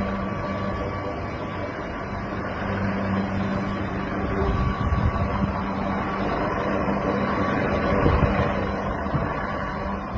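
AW139 helicopter running close by: a steady turbine whine over a dense low rotor rumble, swelling a little about halfway through.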